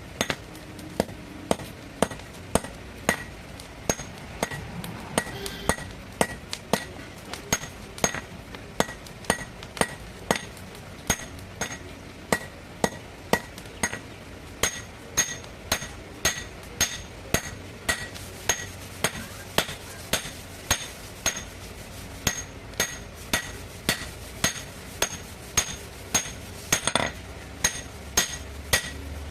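Blacksmith's hammer striking metal on an anvil in a steady rhythm of about two blows a second, each blow with a short metallic ring.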